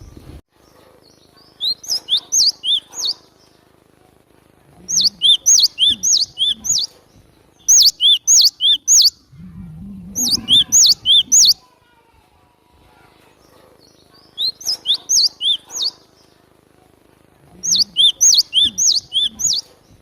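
Cinereous tit (glatik batu) singing: six phrases of quickly repeated high, down-slurred whistled notes, each phrase lasting one to two seconds, with short pauses between them. This is the bird's loud song, used as a lure call.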